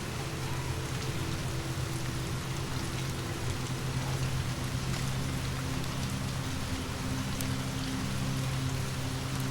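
Steady rain falling as an even hiss, with scattered faint sharp ticks and a steady low hum underneath.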